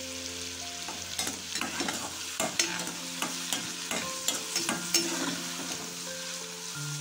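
Soya chunks frying in hot coconut oil in a cast-iron kadai, sizzling steadily. A steel skimmer stirs them, scraping and clicking against the pan from about a second in until just after five seconds.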